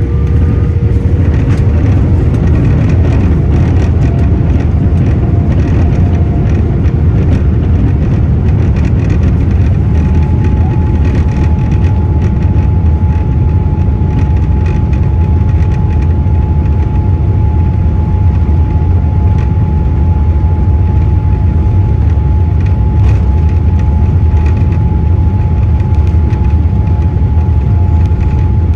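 Boeing 787-8 airliner's engines at takeoff power, heard from inside the cabin during the takeoff roll: a loud, steady deep rumble, with many short rattles and knocks from the cabin and runway. A steady high tone joins about ten seconds in.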